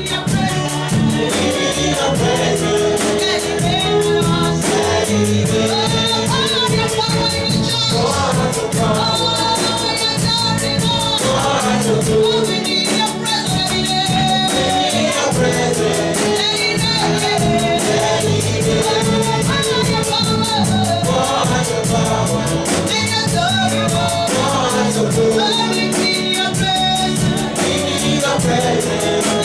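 Gospel worship music: a group of voices singing together over a band with a steady beat.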